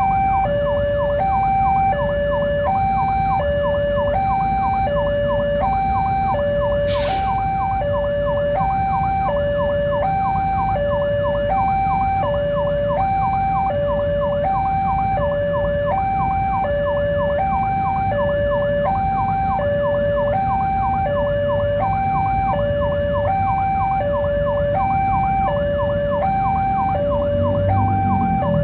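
Railway level-crossing warning alarm sounding an electronic two-tone signal that alternates between a higher and a lower pitch about once a second, warning that a train is coming. A low rumble runs underneath, and there is a single sharp click about seven seconds in.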